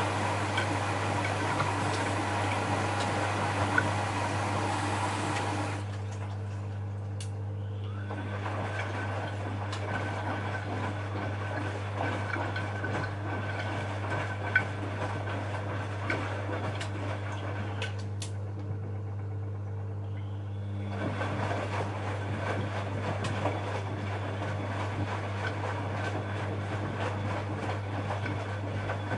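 Bosch Maxx WFL 248Y front-loading washing machine running a wash programme: a steady low hum under a rushing, churning wash noise. The rushing layer falls away about six seconds in and comes back about three quarters of the way through.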